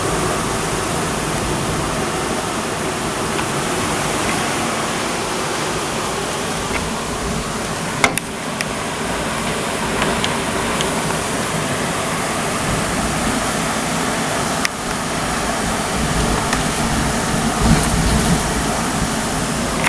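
Heavy thunderstorm rain pouring down steadily, with two sharp clicks about eight and fourteen seconds in and a low rumble of thunder near the end.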